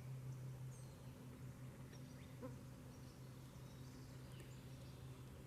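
Quiet woodland ambience: a faint steady low hum, with a few faint bird chirps.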